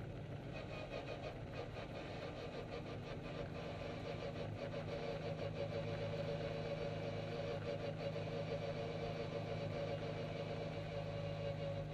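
Classic Mini race car's engine running at low, steady revs, heard from inside the stripped cabin as the car rolls slowly along the pit lane.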